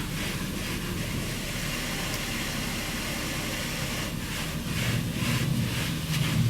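D&S 5000 automatic car wash gantry running with a steady hum, heard from inside the van. From about four seconds in, water spray hits the body in repeated gusts, getting louder toward the end.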